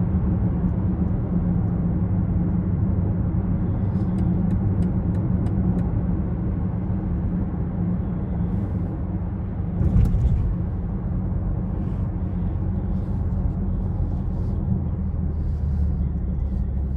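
2020 BMW X6 40i driving, with its turbocharged straight-six and the road making a steady low hum. A run of light ticks comes about four seconds in, and a short thump about ten seconds in.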